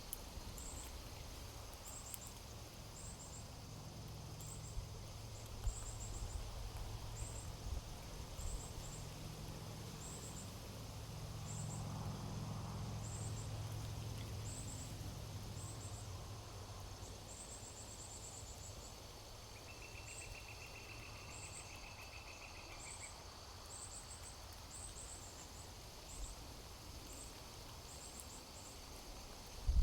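Outdoor morning ambience: insects chirping in short, high, evenly repeated pulses over a steady high insect drone. A brief trill of about three seconds comes about two-thirds of the way in, and a low distant rumble swells and fades in the middle.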